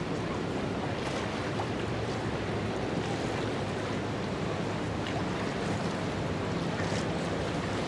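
Steady wind and water noise with a faint low hum beneath it.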